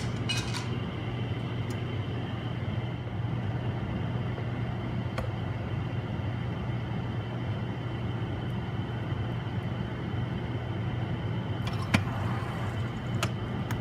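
Steady low mechanical hum, with a few faint clicks and one sharper click near the end.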